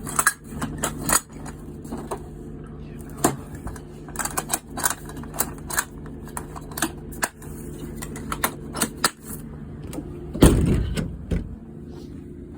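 Irregular clicks and clattering knocks of items being handled and moved, with a heavier thump about ten and a half seconds in.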